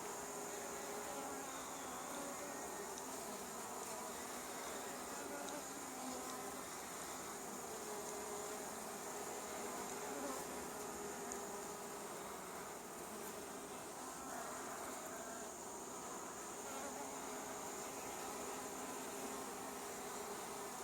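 Many honey bees buzzing steadily at a hive, the blended hum of a colony flying in and out of the entrance.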